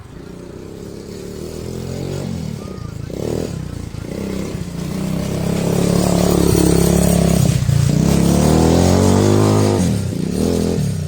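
Quad bike engine accelerating, growing louder as the revs build. The revs climb in the last few seconds, then drop off sharply near the end, with a brief blip after.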